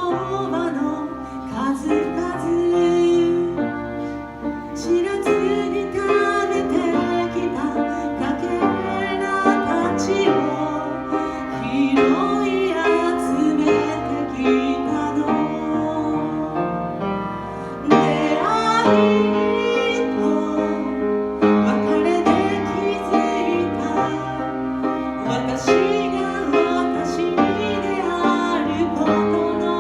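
A woman singing a slow ballad live with instrumental accompaniment, piano among it.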